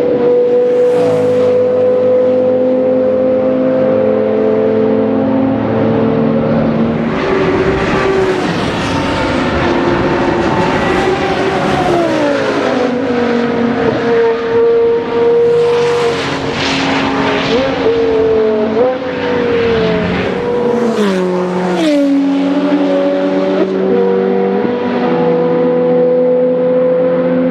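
Porsche Carrera GT's 5.7-litre V10 on a straight-pipe exhaust, running hard at high revs on track. The note holds nearly steady for long stretches, falls in pitch twice as the car slows, and shows short sharp rises in pitch between the falls, like throttle blips.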